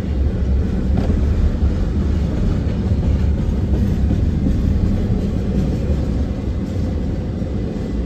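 Norfolk Southern double-stack intermodal freight cars rolling past, a steady rumble of steel wheels on rail that eases off near the end as the last car clears the crossing.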